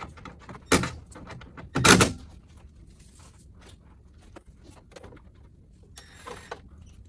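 Two loud knocks about a second apart, then scattered light clicks and rattles: parts being pushed and knocked into place on a pickup's front end.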